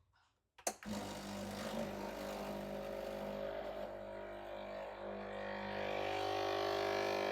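Breville Barista Express espresso machine's vibratory pump humming steadily as it brews a double shot. It starts with a click about a second in and grows a little louder over the last couple of seconds.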